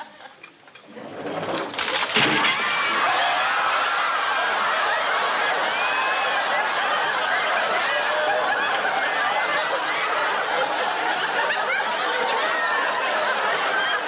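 Sitcom studio audience laughing. It starts faint, swells about a second in, and then runs on as one long, steady wave of crowd laughter.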